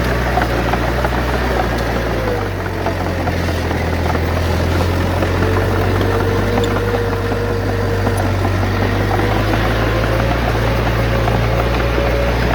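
Heavy diesel engine of earthmoving machinery running steadily, its low drone changing pitch about two seconds in, with a steady whine above it and scattered small clicks and rattles.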